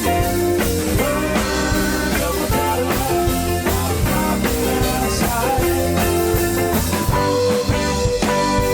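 Live rock band playing, with guitars, drums, bass and keyboards, in a passage between sung lines, recorded on a camcorder's built-in microphone.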